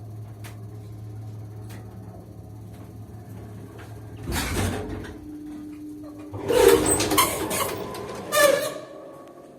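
A 1968 KMZ passenger lift with a steady low hum that stops about halfway through with a loud clunk. This is followed by a burst of loud clattering with squealing creaks as its doors move.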